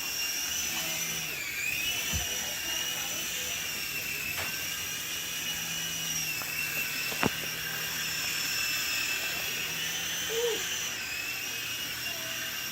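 Sky Rover Vigilante toy RC helicopter flying, its small electric rotor motors giving a steady high whine. The pitch dips and recovers twice, once early and once near the end. There is a single sharp tick about seven seconds in.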